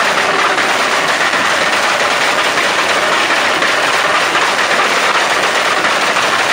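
Turbocharged car engine with anti-lag running: a steady, rapid crackling and fluttering chatter with no letup.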